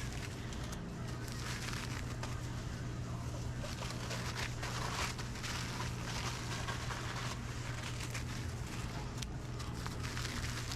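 Busy commercial kitchen ambience: a steady low hum from running kitchen equipment under a constant background noise, with scattered clicks and clatter of kitchen work.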